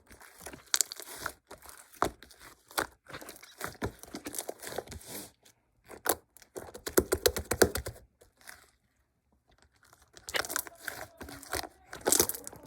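Close, hand-made crinkling, crackling and tearing of a thin, crinkly material such as paper or plastic wrap, in many small sharp crackles. A fast run of crackles comes about seven seconds in, then it stops for about two seconds before starting again.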